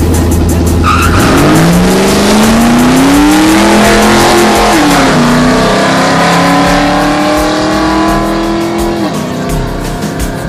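Drag-racing vehicle's engine launching hard. It holds a steady pitch for about a second, then climbs, drops at a gear change about five seconds in, climbs again and drops near the end. Loud throughout.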